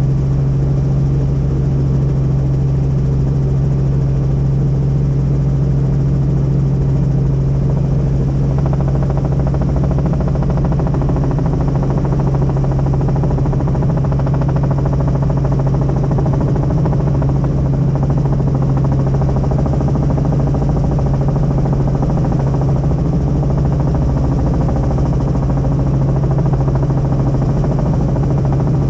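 Helicopter engine and rotor noise heard from inside the cabin: a loud, steady drone with a strong low hum and no change in pitch.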